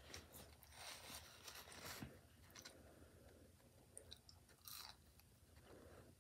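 A person chewing food, faint, with crunchy chewing in the first two seconds and a few short mouth clicks later on.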